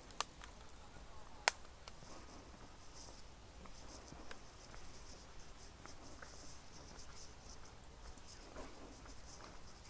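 Faint, irregular scratchy rustling, with two sharp clicks in the first two seconds.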